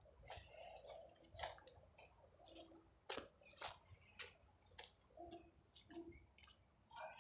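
Near silence, with faint scattered clicks and taps and a faint steady high-pitched whine.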